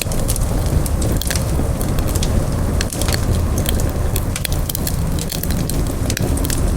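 Wood campfire burning, with a steady low rumble of flames and frequent irregular sharp crackles and pops of splitting wood.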